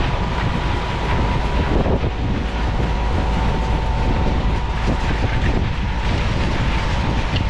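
A Putzmeister concrete boom pump running and pumping: a steady, loud machine noise with a faint steady whine and a few irregular knocks. Wind is rumbling on the microphone.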